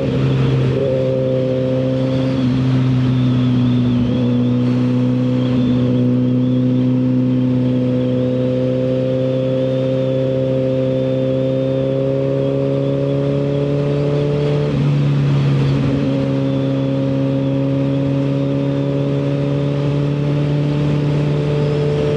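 Suzuki GSX-R1000R inline-four engine with a CS Racing full exhaust, running steadily under way. Its note creeps slowly up in pitch and breaks briefly several times, a few seconds in and again about two-thirds through. A steady rush of wind noise runs under it.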